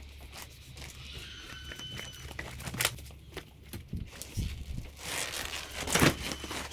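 Bags and gear being handled and loaded, rustling and knocking, with a sharp knock about three seconds in and a louder rustle near the end, over a low steady hum.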